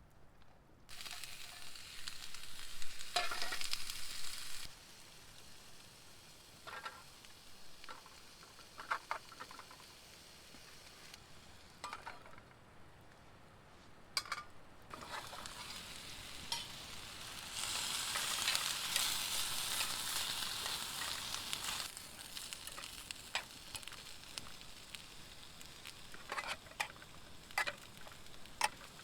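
Food sizzling in a hot pan, swelling twice (near the start and again past the middle), with scattered clicks and light knocks.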